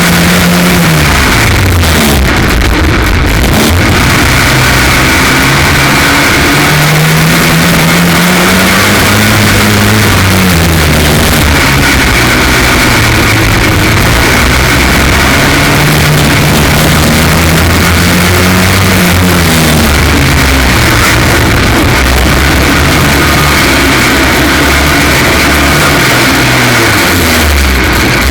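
F2 stock car engine under race load, its pitch rising and falling over and over as it revs up and eases off, very loud throughout. The engine is running with a misfire caused by a cracked spark plug.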